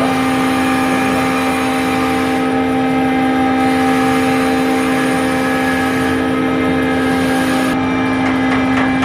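A woodworking power machine running steadily with a loud, constant hum. The upper part of its sound shifts slightly about three-quarters of the way through.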